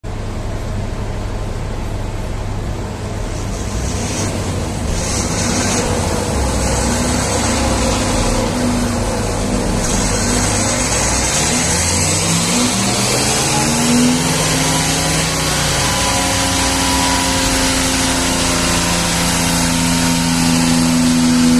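Volkswagen Golf 4 1.9 TDI four-cylinder turbodiesel engine running under load. Its pitch wavers for the first half. From about halfway it climbs steadily for nearly ten seconds as the revs build.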